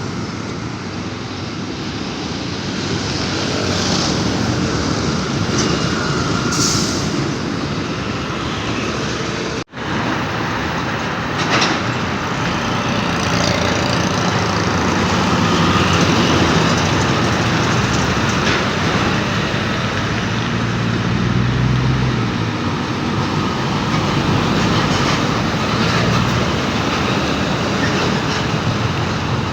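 Heavy truck traffic: diesel engines and tyres running steadily, with a brief dropout about ten seconds in where the footage cuts.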